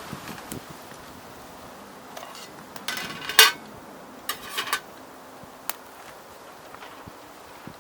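Metal utensils clinking against cookware in a few short knocks and clatters, the loudest about three and a half seconds in.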